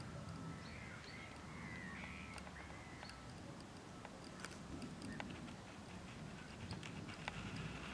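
Faint open-air ambience with birds calling, including a few short curved calls about two seconds in, over a steady low background hum.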